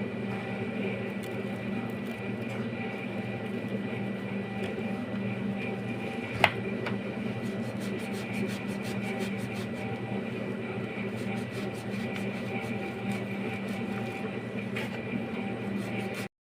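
A steady mechanical hum with a low drone and a high whine, broken by one sharp click about six seconds in and faint ticking later.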